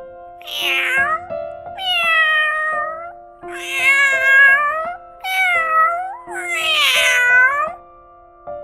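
Domestic cat meowing five times, each meow about a second long, over soft background music with held notes.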